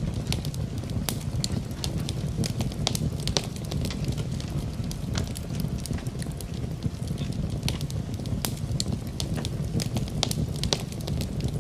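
Wood fire crackling in a fireplace: irregular sharp pops and snaps over a steady low rumble, with rain mixed in.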